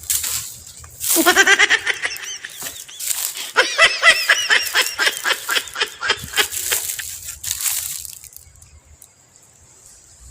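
A person laughing hard in two long, high-pitched fits, the first about a second in and the second from about three and a half seconds, dying away by about eight seconds.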